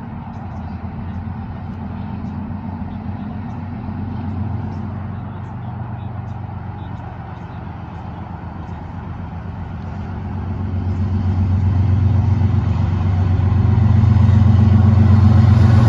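CN diesel-electric locomotive engines running with a steady low drone that grows louder from about ten seconds in as the locomotives draw closer.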